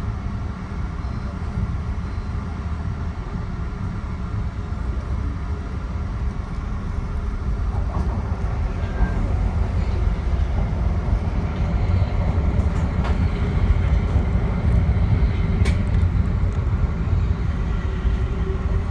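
Metro-North commuter train running along the track, heard from inside at the front: a steady low rumble that grows somewhat louder about halfway through, with a few faint clicks and squeaks.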